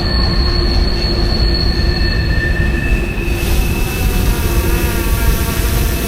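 Freight train rolling past, its wheels squealing with steady high tones over the rumble of the cars. The highest squeal stops about halfway through as a rushing noise rises.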